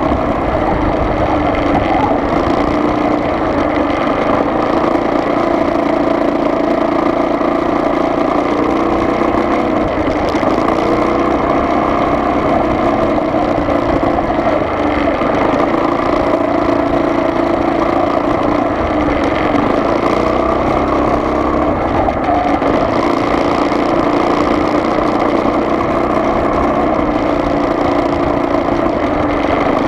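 Car engine running steadily with road noise, holding an even pitch with no revving or pauses.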